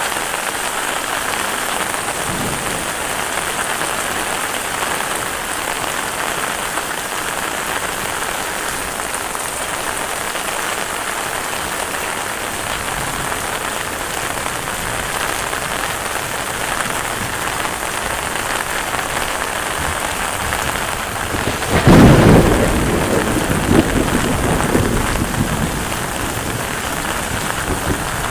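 Heavy rain falling steadily. Near the end a loud thunderclap breaks suddenly and rumbles on for a few seconds.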